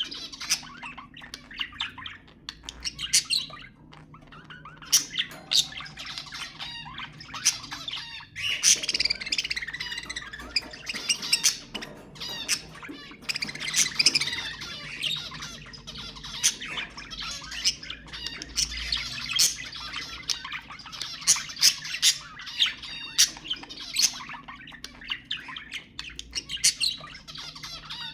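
A flock of budgerigars chattering and warbling without pause, broken by frequent sharp squawks and chirps. It is the kind of lively calling played to encourage budgies to breed.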